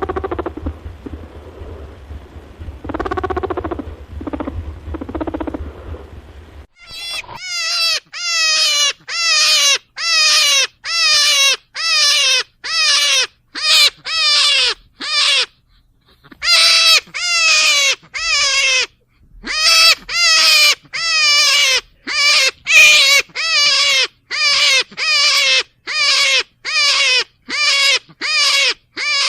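Rabbit giving loud, wavering cries over and over, about one a second, with two short pauses; the cries start about seven seconds in, after a stretch of softer sounds over a low hum.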